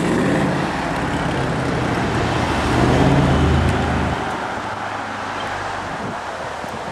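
Mercedes-AMG V8 engines of an SL63 and an S63 accelerating hard away, one after the other: a deep engine rumble that swells to its loudest about three seconds in, then fades as the cars pull away.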